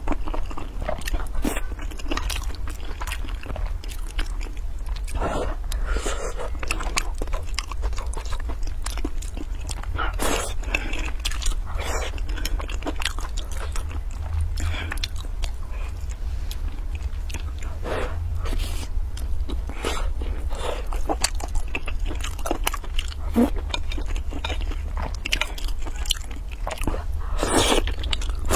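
Close-miked chewing and biting of rice with braised eggplant and glass noodles, with many irregular wet mouth clicks and smacks. A steady low hum lies underneath.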